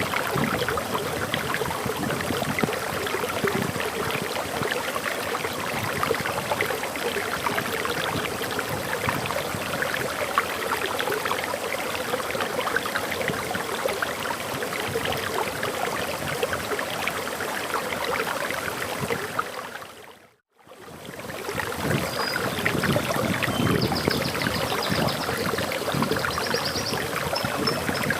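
Waterfall water rushing and splashing steadily, fading briefly to silence about two-thirds of the way through and coming back. Faint high bird chirps over the water near the end.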